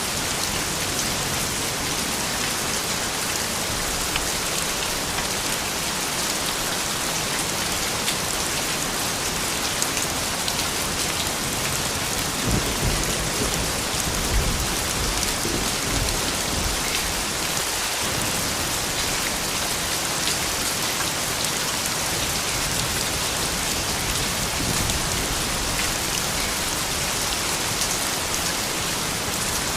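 Steady rain falling on surfaces, an even hiss with scattered drop ticks. About halfway through, a low rumble of distant thunder swells for several seconds and fades.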